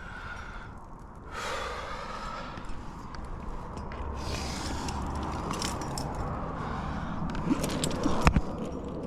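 A rock climber's heavy breathing, two long breaths, over small clinks and scrapes of climbing gear against rock, with one sharp knock near the end.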